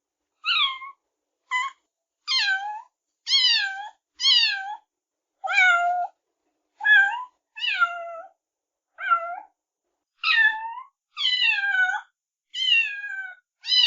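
Cat meowing over and over: about a dozen short, high meows roughly a second apart, each sliding down in pitch.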